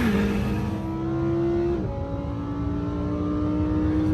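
A car engine under full throttle in a street race pull, its pitch climbing steadily, with quick drops for upshifts right at the start and about two seconds in.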